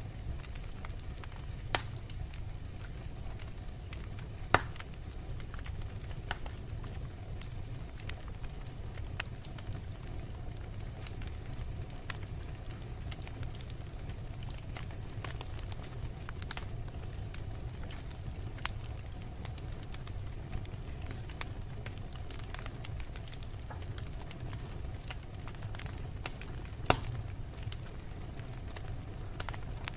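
Log fire burning in a fireplace: a steady low rumble of flames with frequent small crackles and a few sharp pops, the loudest about four and a half seconds in and another near the end.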